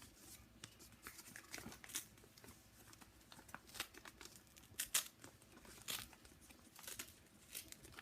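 A sheet of paper being torn by hand slowly along a sharp fingernail crease, in short, quiet, stop-start rips and crinkles; the strongest rip comes about five seconds in.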